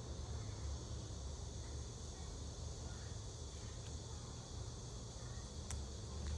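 Faint steady high hiss over a low rumble, with one sharp click near the end.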